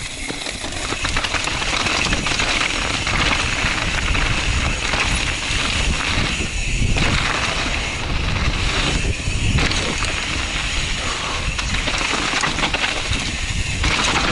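Wind rushing and buffeting over the microphone with tyre noise and bike rattle as a mountain bike descends a muddy trail at speed. The noise swells over the first couple of seconds and stays loud.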